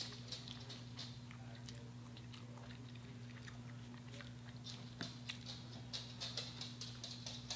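Faint chewing of fried chicken: soft, scattered crunches and mouth clicks over a steady low hum.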